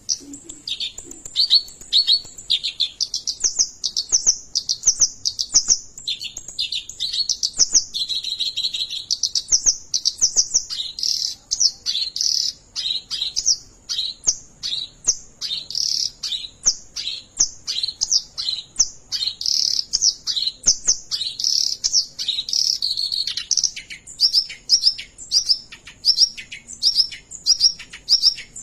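Oriental reed warbler singing without pause, a rapid run of harsh, quick-sweeping chattering notes that settles near the end into evenly repeated notes about two a second.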